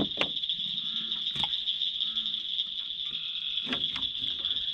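Steady, high-pitched night chorus of crickets and other insects, with a few short clicks and knocks.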